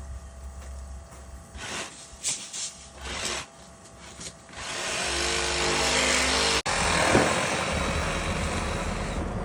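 A few short scrapes and knocks, then about halfway through a heavy machine's engine running steadily and loudly, cut off for a split second once.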